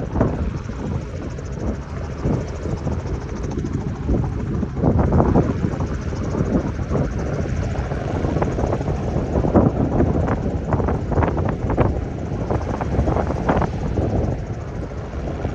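Gusty wind buffeting the microphone, coming in irregular surges, over the running of a Sling light propeller aircraft's engine during a touch-and-go.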